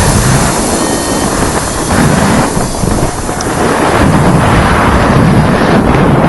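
Loud airflow buffeting the microphone of a camera carried on a paraglider in flight, rising and falling in gusts.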